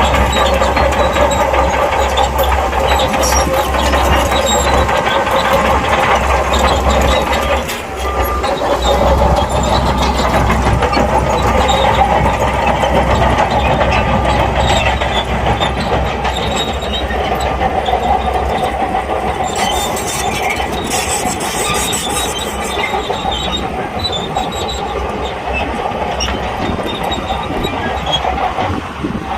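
SHANTUI crawler bulldozer working, its diesel engine running under steady squealing and clanking from the steel tracks. The deep engine hum fades about two-thirds of the way through while the track squeal goes on.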